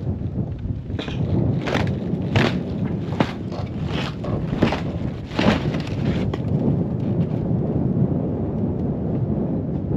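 Wind rumbling on the microphone, with a run of about seven sharp knocks, evenly spaced less than a second apart, in the first half.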